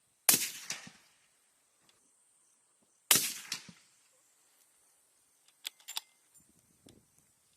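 Two rifle shots about three seconds apart, each trailing off in a short echo, followed a few seconds later by several faint clicks.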